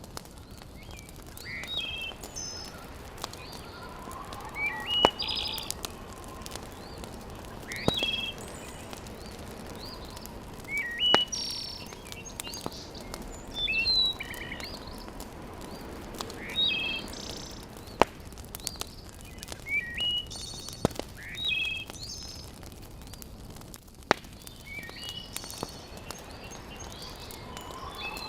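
Small birds chirping in short calls repeated every few seconds, over a wood fire in a fireplace that gives a few sharp single pops.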